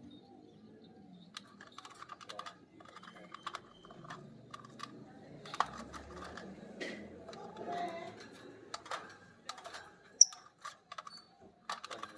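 Lovebird making its rapid, irregular clicking chatter, the 'ngetik' call that sounds like typing, with one sharp high chirp about ten seconds in.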